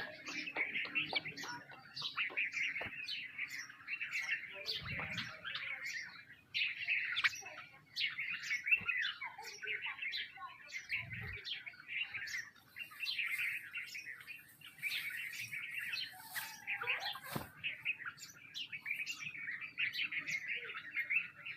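A flock of sparrows chirping, many short calls overlapping without a break, with a couple of soft low bumps among them.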